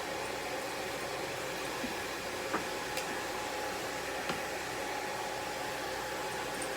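Hair dryer running steadily, blowing on a wet long-haired cat's coat: a constant rushing of air with a faint motor whine. A few faint clicks come through in the middle.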